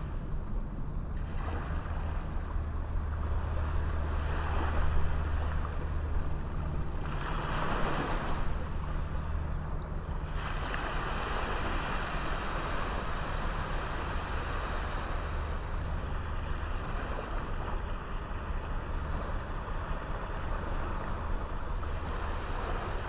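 Sea waves washing onto a small beach, the surf noise swelling and ebbing every few seconds, with one bigger surge about a third of the way in. A steady low rumble runs beneath the surf.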